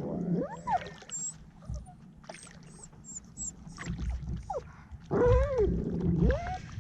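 Dog whining aboard a kayak: a short rising-and-falling whine just after the start, then a longer, louder one about five seconds in.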